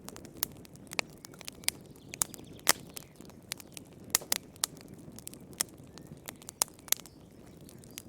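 Fire crackling in a fireplace: irregular sharp pops and snaps, a few louder ones, over a low steady rush of flame.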